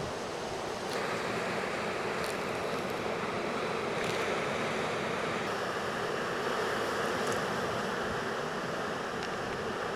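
Ocean surf breaking in a steady rush of noise, with wind on the microphone.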